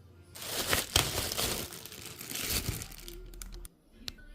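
Packaging being handled and crinkled: a dense rush of rustling and crackling with a few sharp clicks, lasting about two and a half seconds before it dies away.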